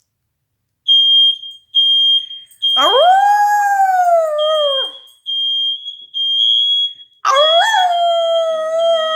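Smoke alarm sounding a high steady beep, three short beeps and then nearly continuous, with a dog howling along at it twice in long howls that rise in pitch and then slowly fall.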